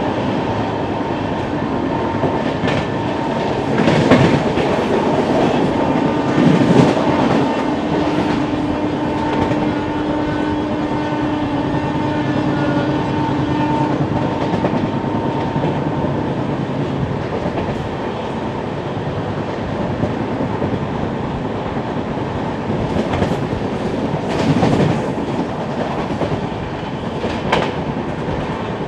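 Double-decker express passenger train running through at about 100 km/h: steady wheel-and-rail rumble and rush with a few sharp knocks as the wheels cross joints and points. The locomotive's horn sounds one long steady blast from a few seconds in for about ten seconds.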